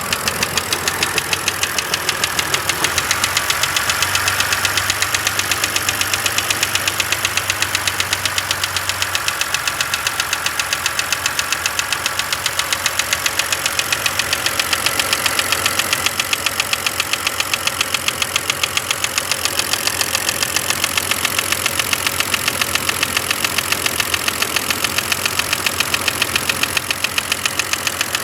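BMW N52 inline-six engine running with a fast, even ticking over the engine note, the strange noise the owner is asking for help with.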